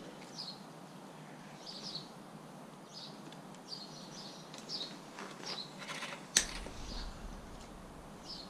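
Small birds outside chirping in short, high calls every second or so, over a quiet background hiss. A bicycle chain being fitted gives a brief rattle and then a single sharp click about six and a half seconds in.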